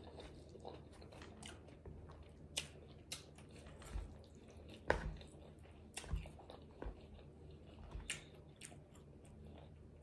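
Faint close-up eating sounds: chewing a mouthful from a chicken-and-rice burrito bowl, with scattered short clicks and taps as the fork works the food in the bowl.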